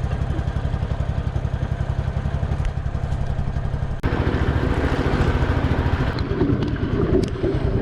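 Small boat's engine running with a fast, even beat. About halfway through it abruptly becomes louder.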